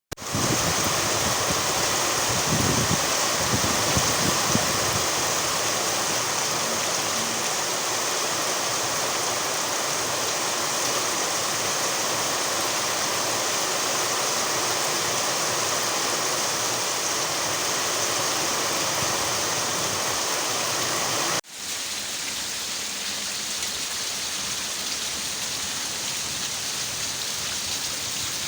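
Steady rain pouring down, with a few low wind rumbles a few seconds in. About 21 seconds in the sound breaks off and at once picks up again slightly quieter.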